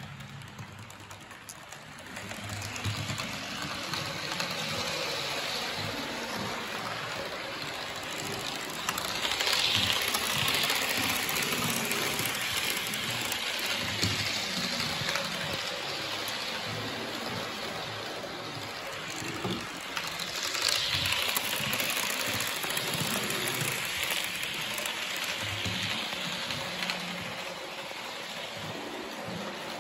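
Class 444 electric train running on the track: a steady rush of wheel and air noise with an uneven clatter of the wheels on the rails, swelling louder about ten seconds in and again about twenty seconds in.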